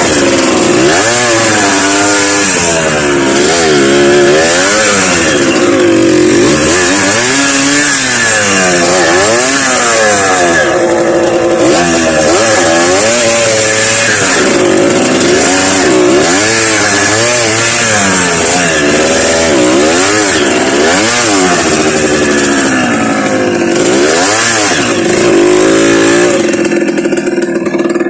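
Trail motorcycle engine revving up and down over and over, the pitch climbing and falling every second or two as the throttle is worked, settling near the end.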